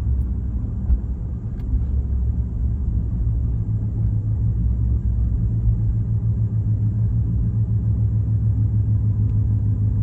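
Dodge Hellcat's supercharged 6.2-litre V8 running steadily at light cruise, a low drone heard inside the cabin along with tyre and road noise.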